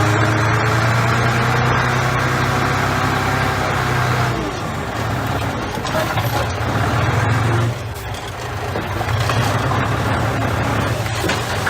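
Heavy diesel engine of a bulldozer working under load, with loud, heavy stretches in the first four seconds and again around six to seven and a half seconds, easing off briefly between and after them.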